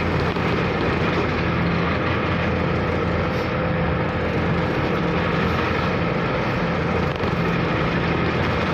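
Car ferry's engine running steadily: a constant drone with a steady low hum, unchanging throughout.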